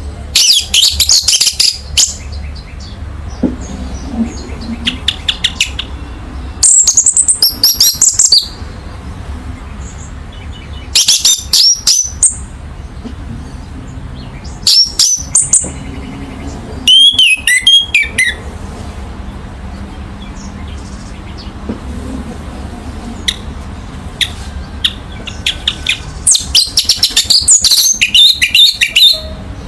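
Orange-headed thrush (anis merah) singing in about six spells of quick, varied, high-pitched phrases, each a second or two long and a few seconds apart. A faint steady low hum runs underneath.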